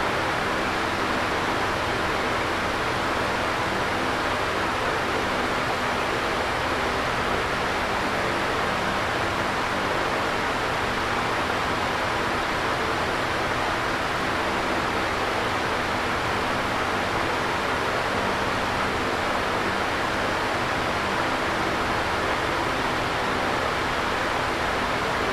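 Electric fan running steadily: an even whooshing air noise with a faint steady hum underneath.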